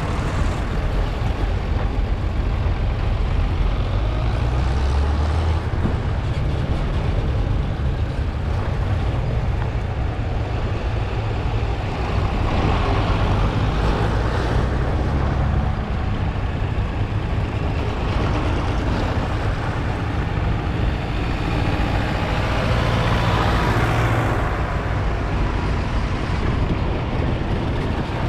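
Vintage farm tractors' diesel engines running on the road, a steady low engine sound that swells twice, about halfway through and again near the end, as tractors pass by.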